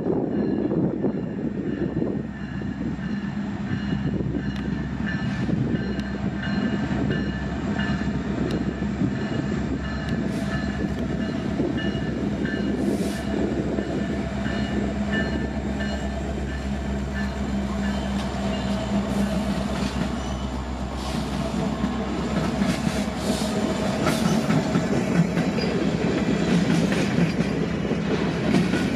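Freight train approaching and passing: diesel-electric locomotives running, then hopper cars rolling by with wheels clacking over rail joints, growing somewhat louder in the last third.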